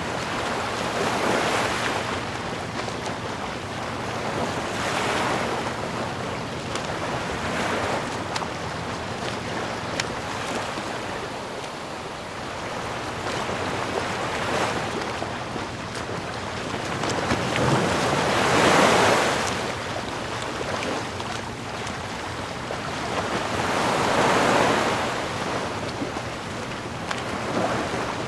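Sea waves washing in and drawing back in slow swells every few seconds, the biggest wave about two-thirds of the way through.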